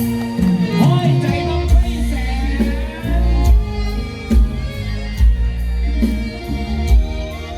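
Live Thai luk thung band music with singing, sustained instrument notes and a steady, heavy bass-drum beat.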